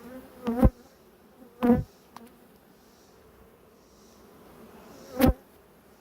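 Swarm of honeybees buzzing around an open hive in a steady hum. Three brief loud buzzes come close to the microphone: about half a second in, just under two seconds in, and about five seconds in.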